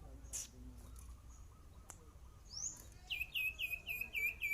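Sirpu songbird singing a quick run of identical hooked notes, about four a second, starting about three seconds in. A short rising call comes just before it, and there is a single faint click earlier.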